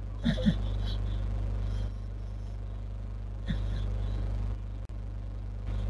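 A sleeping dog snoring in a slow breathing rhythm: a short snort opens each louder breath, twice about three seconds apart, over a steady low electrical hum.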